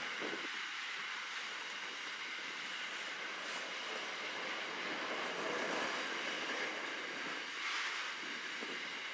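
Freight train's container and curtain-sided wagons rolling past: a steady noise of steel wheels running on the rails.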